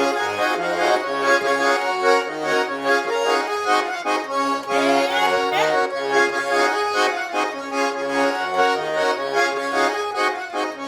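Garmon (Russian button accordion) playing an instrumental chastushka interlude: a lively melody over a steady, rhythmic bass-and-chord accompaniment.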